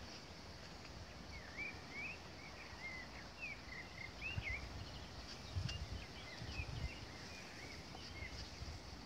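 Small songbirds singing over a field: a steady run of short, quick chirps and twittering notes, with a few brief low rumbles around the middle.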